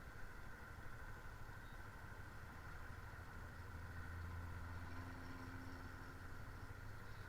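Motorcycle engine running steadily during a ride, swelling a little about four seconds in.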